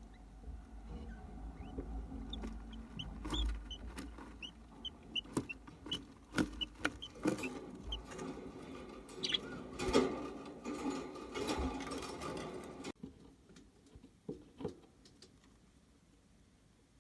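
Budgerigar chick cheeping in short, high peeps, about two a second, over rustling and sharp clicks that cut off abruptly about thirteen seconds in.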